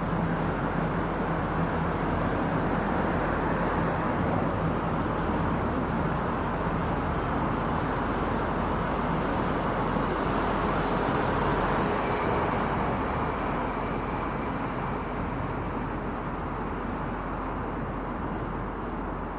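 Steady rushing road and wind noise from a car driving on an expressway, heard through a roof-mounted camera's microphone, with a low engine hum in the first few seconds and a brief swell in the hiss about twelve seconds in. The noise eases off slightly toward the end.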